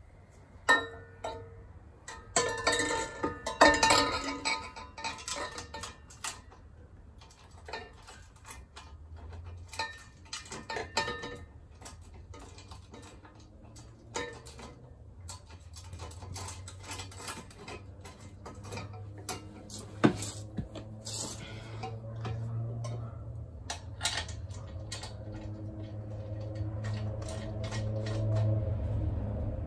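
Metal clinking, clattering and knocking as a chrome exhaust muffler and its mounting bracket are handled and fitted to a motorcycle frame. The clatter is loudest a few seconds in, with scattered knocks after that.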